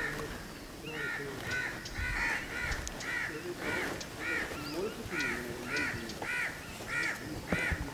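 A bird calling over and over, a short arched call about twice a second, beginning about a second in.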